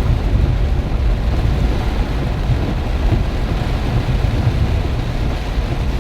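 Heavy rainstorm with strong wind: a steady, rumbling rush of rain and gusting wind with no distinct events.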